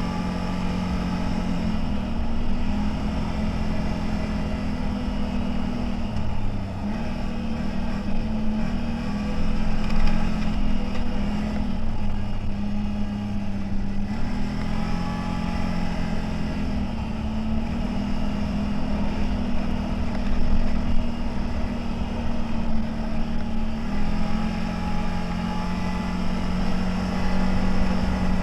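CFMOTO 1000 off-road vehicle engine running steadily under way. Its pitch steps up and down every few seconds as the throttle changes.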